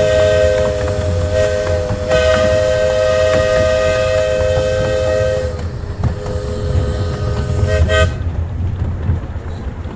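Steam locomotive's chime whistle blowing a three-note chord in a long blast with a brief break about two seconds in, then a fainter second blast that cuts off sharply about eight seconds in, over the steady rumble of the running train.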